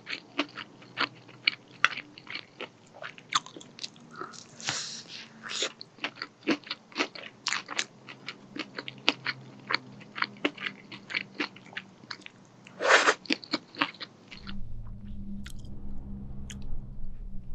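Close-miked biting and chewing of breaded fried chicken: a dense run of sharp crunches, with one longer, louder crunch about thirteen seconds in. The crunching stops about fourteen seconds in, leaving a low hum.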